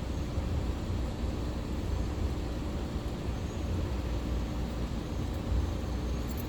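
Steady low rumble with a faint constant hum and light hiss, unchanging throughout.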